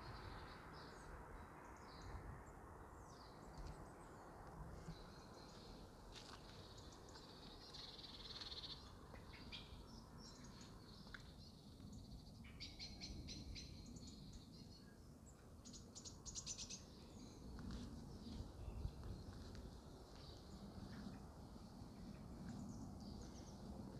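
Small songbirds chirping and twittering faintly, with a couple of quick rattling trills partway through, over a low background rumble.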